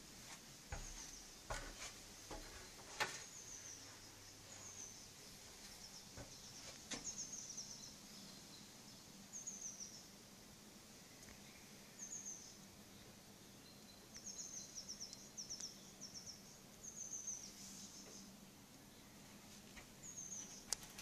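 A songbird singing, faint: short, high, trilled phrases repeated every second or two. A few sharp knocks come in the first few seconds.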